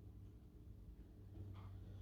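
Near silence: room tone with a low steady hum, and a faint breath or rustle near the end.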